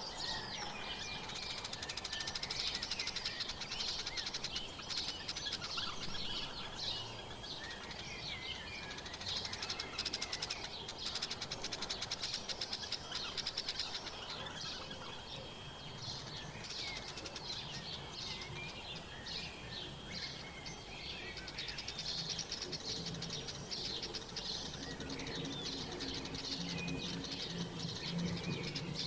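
Many small songbirds chirping and twittering in a dense, overlapping chorus of short high calls. A low steady hum comes in during the last few seconds.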